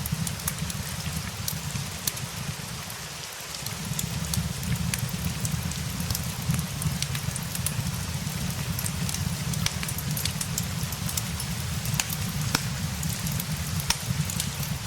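Steady rain mixed with a crackling fireplace: a continuous hiss over a low rumble, with scattered sharp pops and crackles at irregular intervals.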